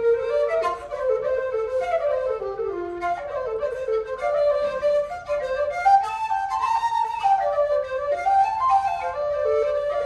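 Irish traditional dance tune played live by a small folk ensemble: a fast, ornamented melody on a wind instrument over plucked-string accompaniment.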